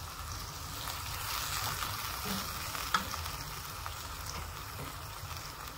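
Spring onions, ginger and garlic with soy and Schezwan sauce sizzling in oil in a nonstick wok over a lowered flame, stirred with a silicone spatula. The sizzle is steady, with a single sharp click about three seconds in.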